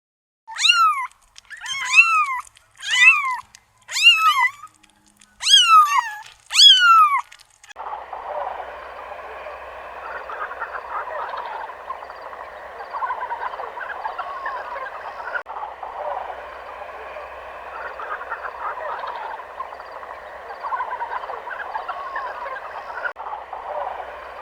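An animal gives six loud calls in quick succession, each one rising and then falling in pitch. After about eight seconds, a dense, continuous chorus of many small animal calls takes over.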